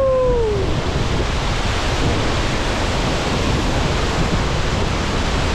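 Waterfall heard up close: a loud, steady rush of falling water, with a low rumble of spray and wind on the microphone.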